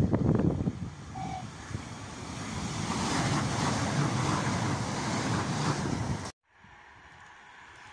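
A passenger train running through beneath a bridge: a rushing wheel-and-air noise that builds and is loudest as the train passes underneath. Wind buffets the microphone at the start, and the sound cuts off abruptly about six seconds in, leaving a quieter background hiss.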